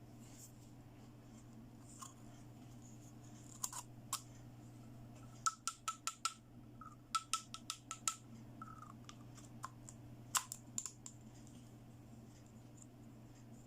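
Small plastic toy pieces being handled, giving scattered sharp clicks and taps, with a quick run of clicks a little past the middle and a few more shortly after.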